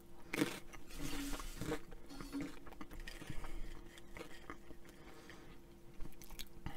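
Flamin' Hot Cheetos being bitten and chewed close to the microphone: irregular crunching, busiest in the first couple of seconds, then quieter chewing.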